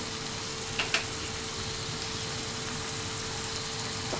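Tomatoes and ground masala paste sizzling gently in hot oil in a non-stick pan: a steady hiss, with two small ticks about a second in and a faint steady hum beneath.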